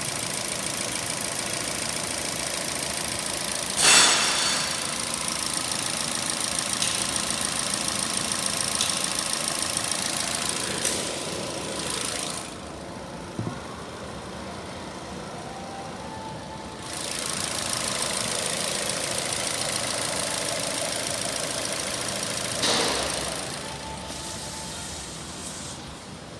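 Holden Barina 1.6-litre four-cylinder petrol engine idling, blipped sharply about four seconds in and again near the end, with a few seconds of quieter running in the middle.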